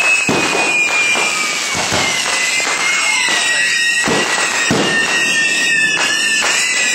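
Backyard fireworks going off loud and fast: a dense run of bangs and crackling. A high whistle slides slowly lower in pitch over it.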